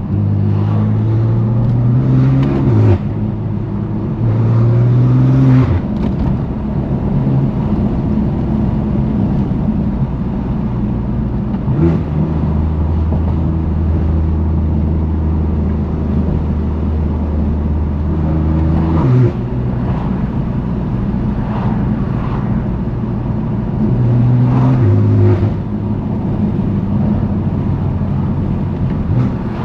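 Straight-piped exhaust of a BMW F80 M3 Competition's S55 twin-turbo 3.0-litre inline-six, pulling in several short bursts whose pitch climbs and then drops sharply at each upshift, with a steady cruise in between.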